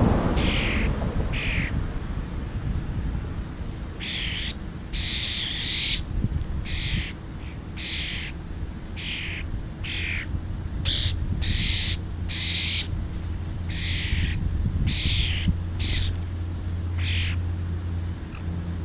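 Birds calling over and over: a long run of short, harsh calls, about one a second, with a low steady hum underneath.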